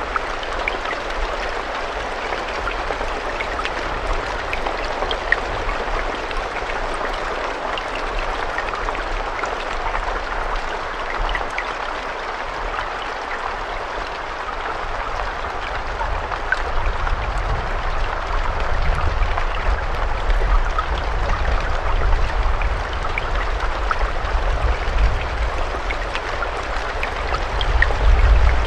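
Steady rain falling, a dense even hiss with scattered single drops ticking through it. A low rumble underneath grows stronger over the second half.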